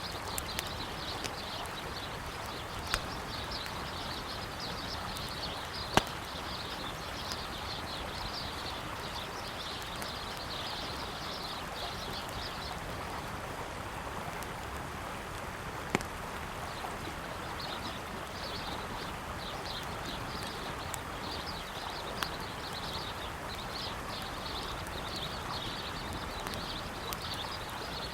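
Wood campfire crackling with a few sharp pops over the steady rush of a flowing river. Birds chirp on and off, pausing for a few seconds in the middle.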